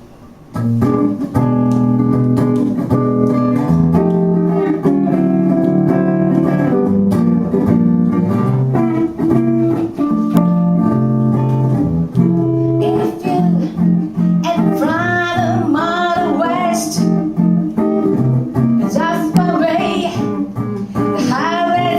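A guitar and vocal duo playing a song: the guitar plays the intro, starting about half a second in, and a singer's voice comes in a little past the halfway point.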